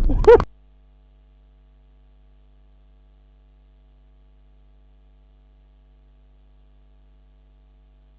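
A brief loud voice over vehicle rumble, cut off abruptly about half a second in, then a low, steady electrical hum.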